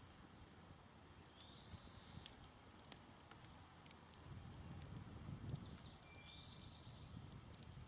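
Faint crackling of a smoldering wood campfire, with scattered sharp pops. A bird gives a short call about a second and a half in and again near the end, and a faint low rumble swells in the middle.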